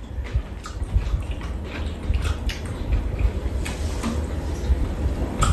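Close-up wet chewing and mouth sounds of people eating soft stir-fried eggplant and potato, with a few light clicks of spoons against bowls.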